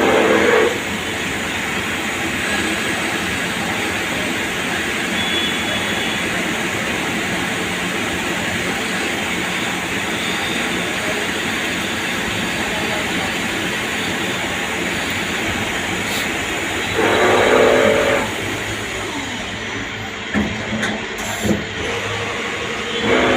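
CNC lathe running through a turning and threading cycle, a steady machining noise. A louder pitched whine lasting about a second comes near the start and again about seventeen seconds in, and a few sharp clicks sound near the end.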